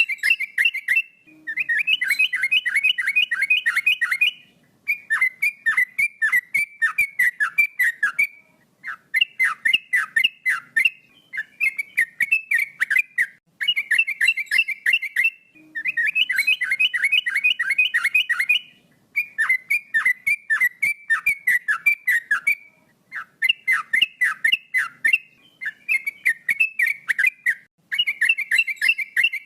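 Male yellow-vented bulbul (trucukan) singing continuously, phrase after phrase of rapid, bubbly chattering notes with short pauses between phrases.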